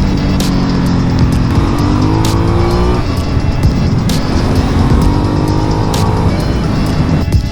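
Aprilia Dorsoduro 900's V-twin engine pulling hard under acceleration, its note climbing in pitch and dropping at each gear change, about three seconds apart, over wind rush.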